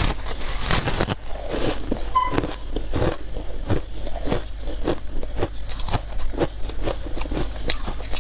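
Close-up biting and chewing of soft, powdery freezer frost, a steady run of irregular crunches, several a second.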